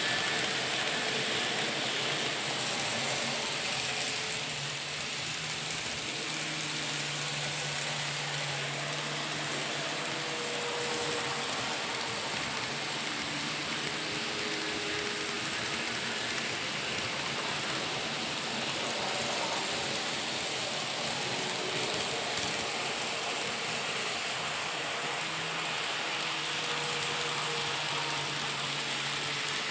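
Electric commuter train running: a steady rushing noise with faint humming tones that come and go.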